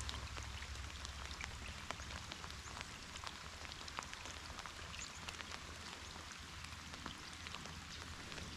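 Light rain falling, many separate drops ticking irregularly, with a faint steady low rumble underneath.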